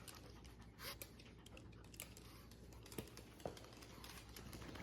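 Near silence: room tone with a few faint, irregular light clicks.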